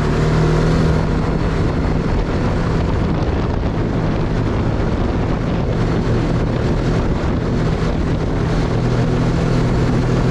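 Snowmobile engine running steadily, with wind buffeting the microphone.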